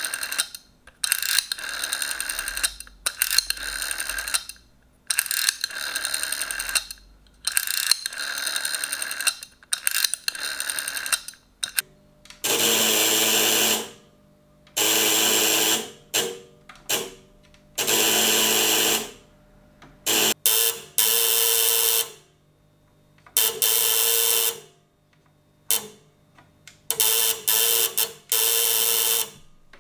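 Electromechanical telephone bells ringing in repeated bursts of one to two seconds with short pauses between. About twelve seconds in, the ring changes to a lower, fuller-toned bell.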